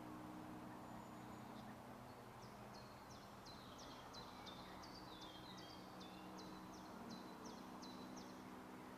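Quiet lakeside ambience with a faint steady low hum. From a couple of seconds in, a small songbird sings a rapid series of short high notes, about three a second, for some six seconds.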